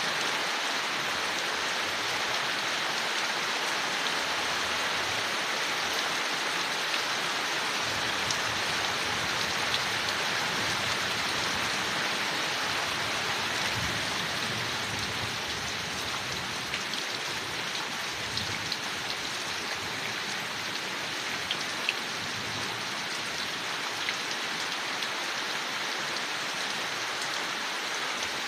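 Steady rain falling on leaves, an even hiss with scattered drop ticks.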